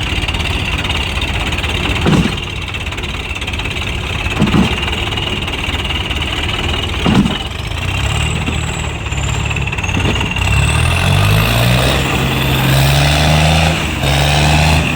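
Tractor diesel engine running, with three brief louder blips about two and a half seconds apart. From about halfway through, the engine revs up and its pitch climbs as it works under load.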